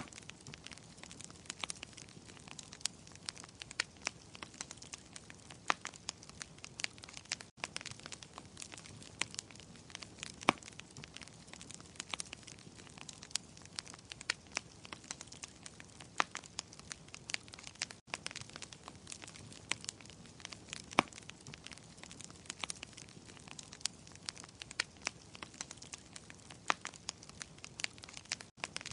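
Wood fire crackling: irregular sharp pops and snaps of burning logs over a soft hiss. The sound cuts out for an instant three times.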